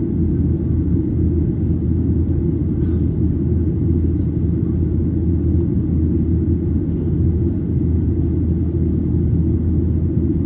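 Steady low rumble of a Boeing 737-800 in flight heard from inside the passenger cabin: its CFM56-7B engines and airflow over the fuselage.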